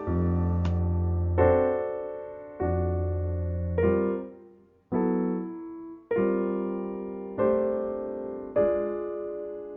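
Slow piano music: sustained chords struck one after another about every second and a bit, each ringing and fading before the next.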